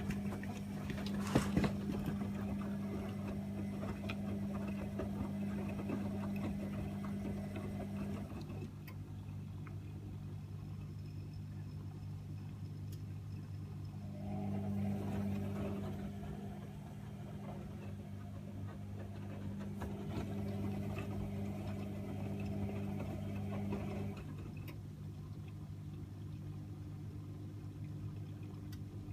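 AEG Öko-Lavamat 76730 front-loading washing machine running: its drum motor hums for several seconds, stops for several seconds, then runs again and stops, over a steady low hum. A sharp knock comes about a second in.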